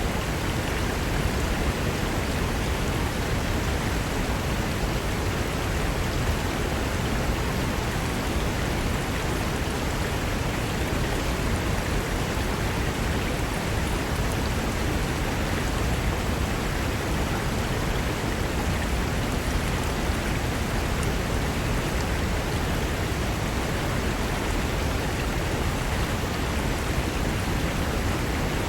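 Fast mountain river rushing over rocks: a steady, even wash of whitewater noise with no breaks or changes.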